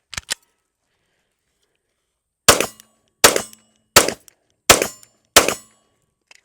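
Five 9mm pistol shots from a Springfield Armory Hellcat Pro, fired evenly about 0.7 seconds apart, starting a couple of seconds in. Two short clicks come just before them.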